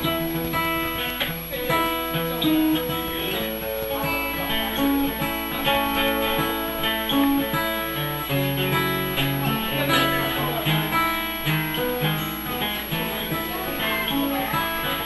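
Acoustic guitar playing an instrumental break in the song, strummed chords with a picked melody and bass notes moving underneath.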